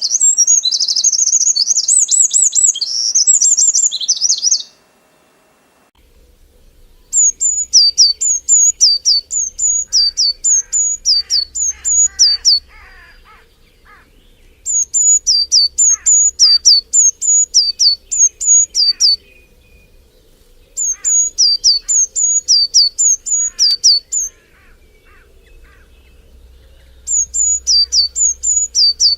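Birdsong from two different birds. First comes a fast, high chattering warble that stops abruptly about four and a half seconds in. After a short gap, a bird sings bouts of repeated high, down-slurred notes, two or three a second, with pauses of a second or two between bouts and fainter lower calls behind them.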